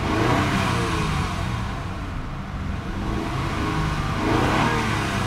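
2001 Acura CL's 3.2-litre V6 revved while standing still, heard from inside the cabin: the engine speed rises and falls twice, to about 3,000 rpm, once near the start and again about four seconds in.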